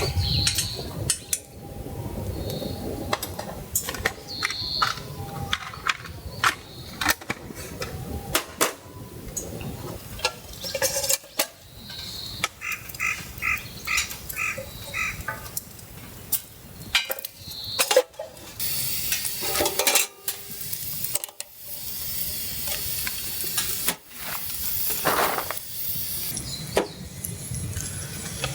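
Metal cookware and utensils being handled: a scattered run of clinks, knocks and clatters, with a quick string of about seven short ringing clicks around the middle.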